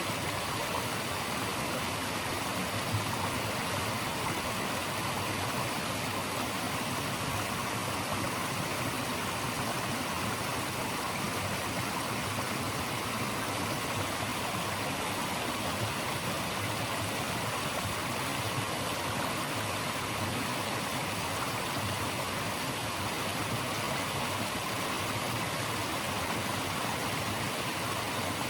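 Steady, even rushing of flowing water, a continuous natural white noise without change.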